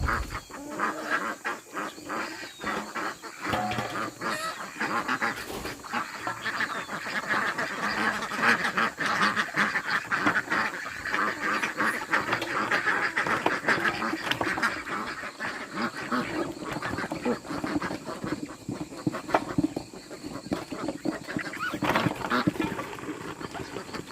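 A dense, continuous chorus of many overlapping animal calls.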